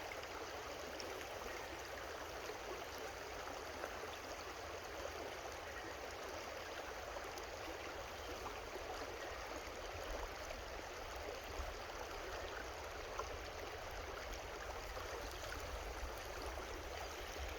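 Steady rushing of a small creek flowing over rocks, an even continuous water noise.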